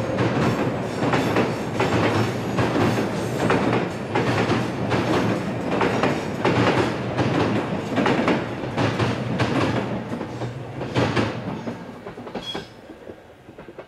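Passenger coaches rolling over a steel truss railway bridge, their wheels knocking over the rail joints in a clickety-clack over a steady rumble. The sound fades away over the last few seconds as the end of the train leaves the bridge.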